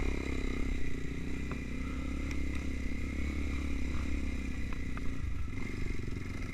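Trail motorcycle engine running steadily at low revs, with a few light clicks.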